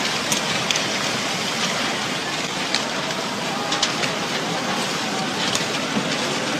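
Steady, loud rushing noise with a few short, sharp ticks scattered through it.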